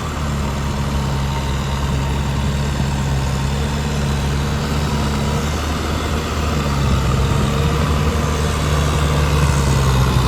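Tractor engine running steadily under load, its low hum shifting slightly in pitch around the middle.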